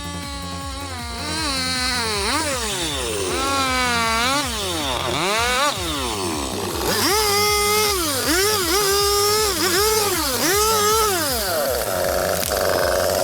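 Chainsaw engine revving over and over as it cuts, its pitch climbing and falling. In the second half it holds high revs in bursts of about a second, dropping briefly between them.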